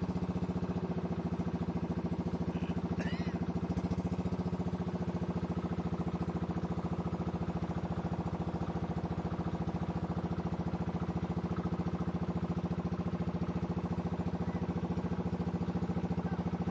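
River boat's engine running steadily with a fast, even chug, heard from on board.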